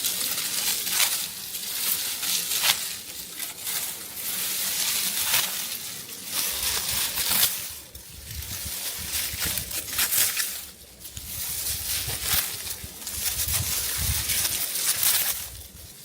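Dry rice stalks rustling and crunching in a run of irregular swishes and crackles, as ripe rice is cut and gathered by hand. A low rumble joins about six seconds in.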